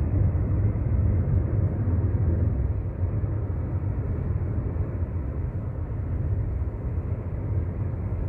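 Steady low rumble of road and engine noise heard inside the cabin of a car driving along a highway.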